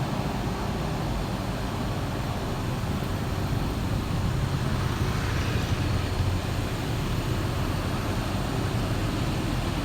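Heavy truck diesel engine running at a slow crawl with road traffic noise, a steady low rumble that swells slightly around the middle.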